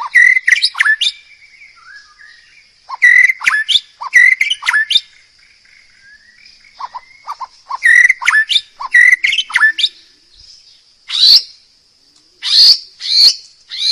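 A songbird singing loud, sharp chirping phrases in three bursts separated by short pauses, then switching to a run of single repeated sharp notes near the end.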